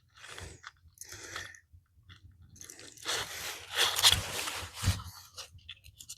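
Plastic insulation being stripped off the end of a 14-gauge copper wire, a series of crunching scrapes, the longest and loudest about halfway through.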